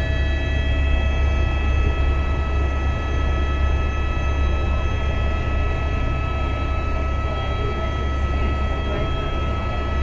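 Helicopter heard from aboard during flight: a steady low drone of the rotor and engine, with several steady whining tones above it.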